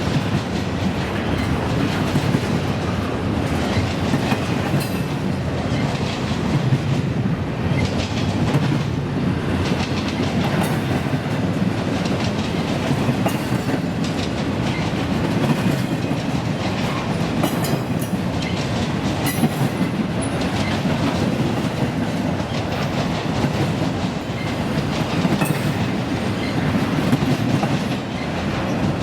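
Freight train cars rolling past with a steady rumble, the wheels clicking and clacking over the rail joints and crossings.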